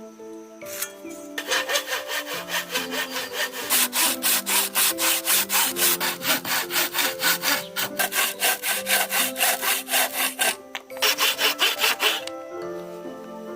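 Handsaw cutting through wood with quick, even back-and-forth strokes, pausing briefly about three-quarters through before a last run of strokes.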